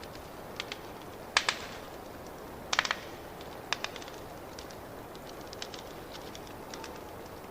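Fireplace wood fire crackling: scattered sharp pops and snaps over a steady hiss, the loudest about one and a half and three seconds in.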